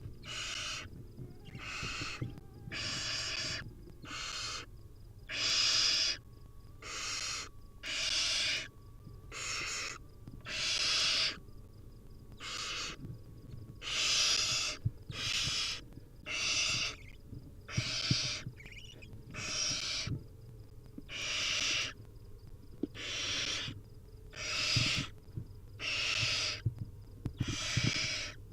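Barn owl nestlings giving their hissing, snore-like food-begging calls: a string of harsh hisses, each about half a second to a second long, repeated every second or two.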